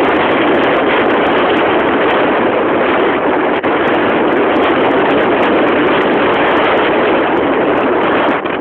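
Loud, steady rushing noise of a ski run: wind buffeting the microphone and skis sliding over snow, with one brief dip about three and a half seconds in.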